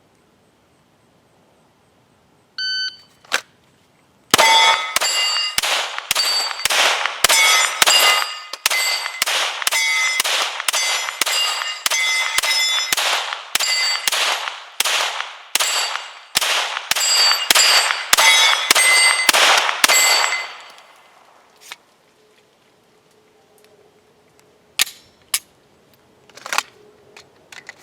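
A short electronic beep, then a Glock 17 9mm pistol firing a rapid string of about two dozen shots over some sixteen seconds, with steel targets ringing after the hits. A few faint knocks follow near the end.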